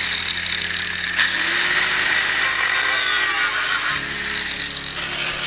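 A power tool cutting slowly through rusty sheet steel on a car's door post, a steady harsh grinding hiss.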